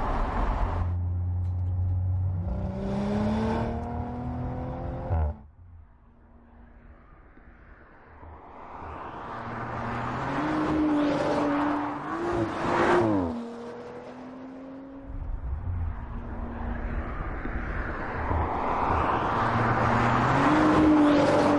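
Audi RS 5 Coupé's twin-turbo V6 engine accelerating hard, its pitch climbing, then cutting off suddenly to quiet about five seconds in. The engine builds again and passes with a falling pitch around twelve to thirteen seconds in, then revs up once more near the end.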